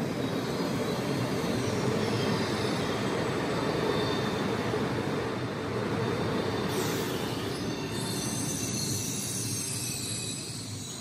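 Italo high-speed electric train pulling into the station, its cars rolling past with steady wheel-on-rail noise. Thin high wheel squeal comes in about eight seconds in.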